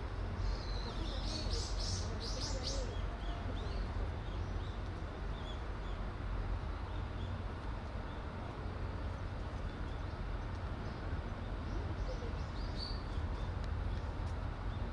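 Small birds chirping, a quick run of short high calls in the first few seconds and a brief few more near the end, over a steady low rumble.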